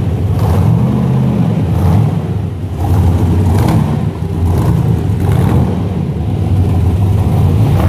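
1965 Chevrolet Corvette's V8 engine running at idle, a steady low rumble.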